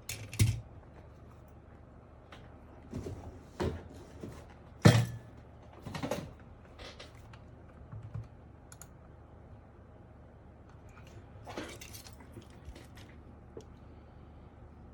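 Parts of a disassembled mechanical keyboard being handled: scattered clicks and knocks, the loudest about five seconds in, with a short scraping rustle near the end.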